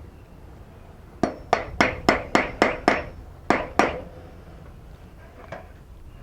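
Hammer blows: seven quick, evenly spaced strikes at about three to four a second, a short pause, then two more.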